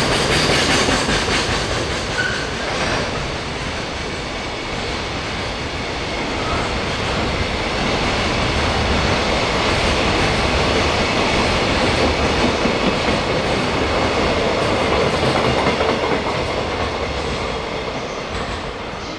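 A freight train rolling past, its wagons' wheels running steadily on the rails.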